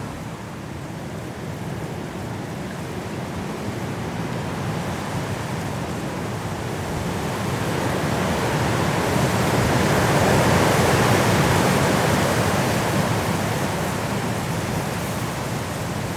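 Strong wind blowing through trees in a snowstorm, a steady rush that builds into a gust about two-thirds of the way through and then eases.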